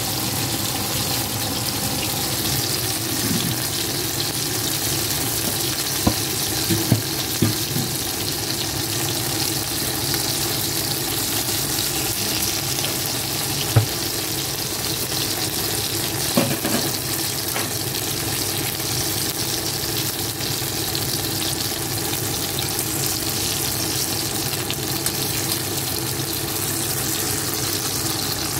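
Vegetables sizzling steadily in hot oil in a pan, leafy greens and then eggplant slices. A few short sharp clicks come through in the first half.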